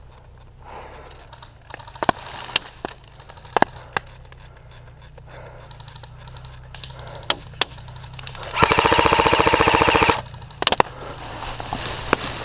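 Airsoft guns firing: a few scattered single shots, then a full-auto burst of about a second and a half with an even, rapid rate of fire, followed by two or three quick single shots near the end.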